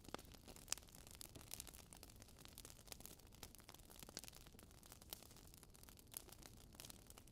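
Log fire in a fireplace crackling softly: irregular small pops and snaps over a faint hiss, with one sharper pop under a second in.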